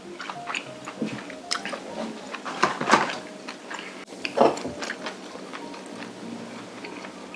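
Close-up wet chewing and mouth smacks of someone eating a mouthful of stir-fried webfoot octopus, with two louder noisy bursts about three and four and a half seconds in. Quiet background music plays underneath.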